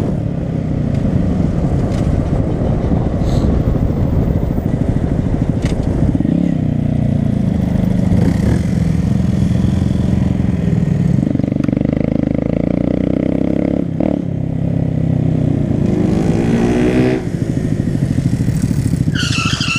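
Honda Grom's small single-cylinder motorcycle engine running under way, its pitch stepping up and down with the throttle, climbing about three quarters of the way through and then dropping back.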